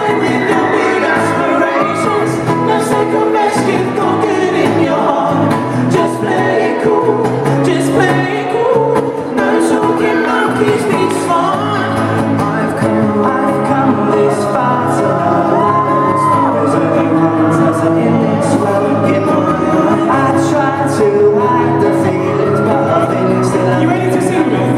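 Live pop band playing with a singer, heard from the audience, with some crowd whoops and shouts over the music.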